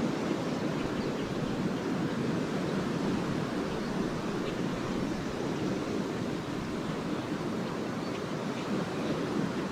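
Lake Erie surf washing onto the beach in a steady, continuous rush, with no single wave standing out.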